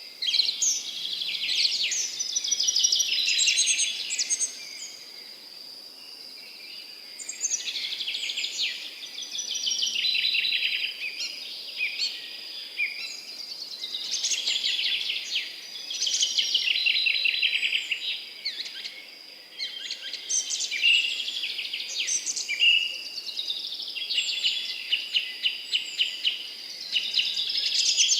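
Several songbirds singing at once in overlapping chirps and trills that rise and fall in waves. A thin, steady high-pitched tone runs underneath.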